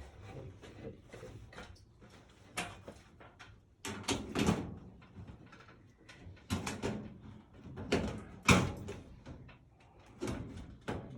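Irregular knocks and clatter of hands-on work replacing a furnace, loudest about four and a half and eight and a half seconds in.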